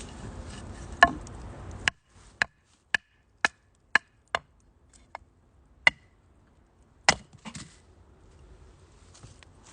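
Firewood burning in a small wood stove and crackling with sharp pops. For the first two seconds a steady hiss of flame lies under the pops; it then cuts off suddenly, leaving single loud snaps about every half second, which grow sparser near the end.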